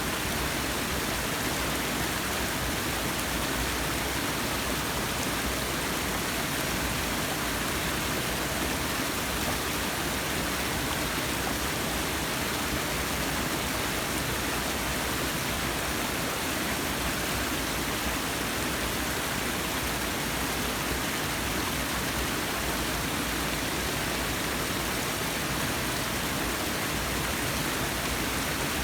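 Forest waterfall: water falling and splashing in a steady, even rush with no breaks.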